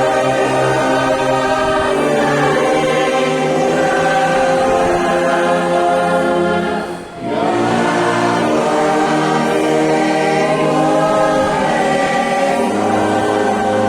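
Congregation singing a hymn in held, sustained chords with instrumental accompaniment, pausing briefly between phrases about seven seconds in.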